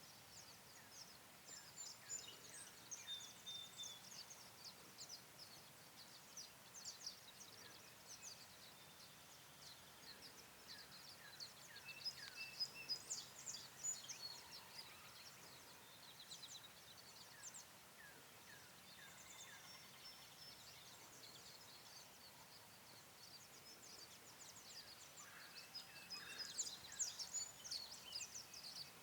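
Faint chirps and short trills of small songbirds, many overlapping high calls, over quiet open-field ambience.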